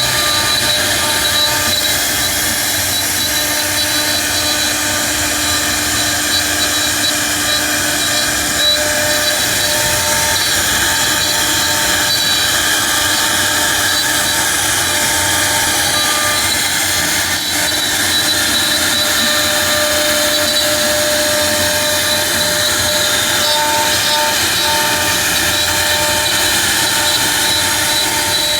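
CNC router spindle running steadily as it carves a 3D cut, a continuous machining noise with faint steady tones that come and go as the machine moves.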